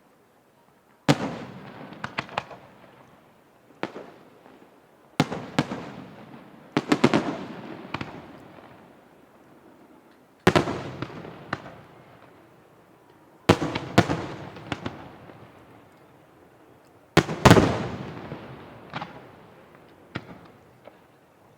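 Aerial firework shells bursting in a fireworks display: a sharp, loud report every few seconds, some in quick pairs. Each report trails off over a couple of seconds in an echoing rumble with crackle.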